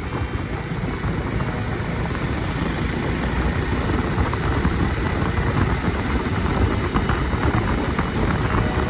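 Motorcycle riding along a road: steady engine and road rumble with wind rushing over the microphone.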